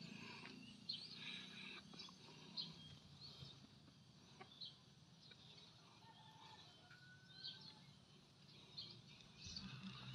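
Near silence with faint, scattered bird calls: short high chirps at irregular intervals, with a couple of slightly longer whistled notes around the middle.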